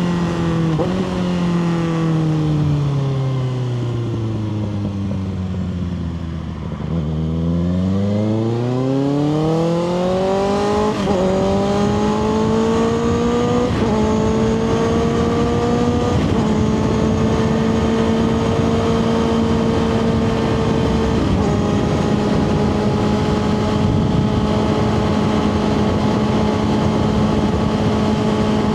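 2024 Kawasaki ZX6R's inline-four engine through a Two Brothers slip-on exhaust, winding down for about seven seconds as the bike slows. It then pulls away, rising in pitch with quick upshifts, and settles into a steady cruise for the second half.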